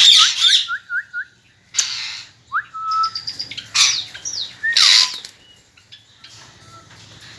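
Pet parrots calling: a quick run of short rising chirps, then harsh screeches mixed with whistled notes, one ending in a falling whistle about five seconds in. The calls are quieter after that.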